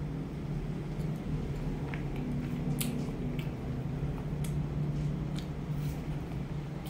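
Close-miked mouth sounds of chewing a mouthful of chewy mixed rice paper salad: soft wet squishes with a few short sharp clicks, over a steady low hum.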